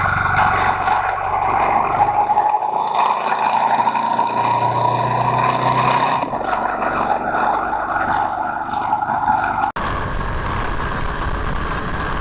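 Motorcycle engine running at speed with wind noise, its note climbing gradually and then easing off. About ten seconds in it cuts abruptly to another motorcycle riding with heavy wind noise.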